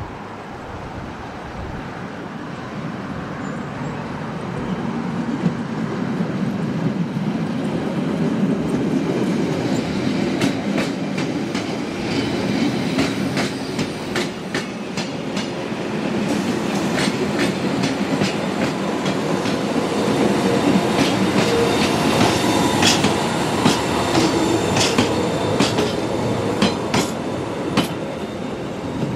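A Matterhorn Gotthard Bahn metre-gauge train, led by a red Deh 4/4 baggage railcar, approaches and passes close by. The rumble of wheels on rail grows louder, and the wheels click sharply and repeatedly over rail joints and points, thickest in the second half as the coaches and wagons go by.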